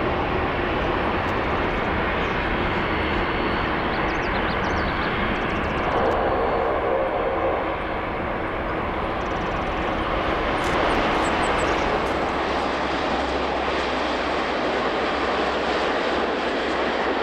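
Jet airliner engines running, a steady loud rush of noise that carries on throughout.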